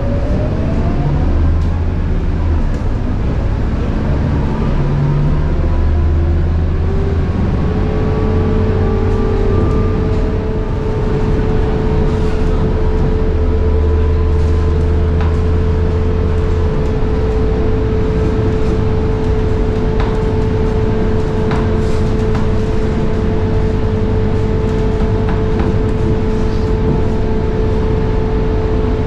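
Scania K230UB bus under way, its 9.3-litre Scania DC9 diesel engine and ZF Ecomat 6HP504C automatic gearbox heard from on board. A whine rises in pitch at the start as the bus gathers speed, then settles into a steady high-pitched gearbox whine from about seven seconds in as the bus cruises.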